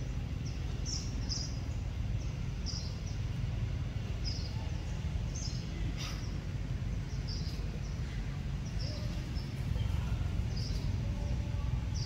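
A steady low outdoor rumble with a bird's short, high chirps repeating about once a second.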